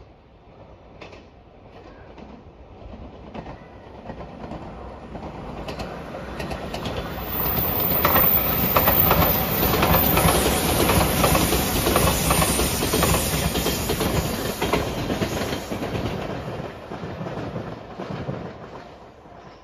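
JR Shikoku 8000 series electric limited express train passing at speed: it grows louder over several seconds, is loudest in the middle with wheels clicking over the rail joints, then fades away.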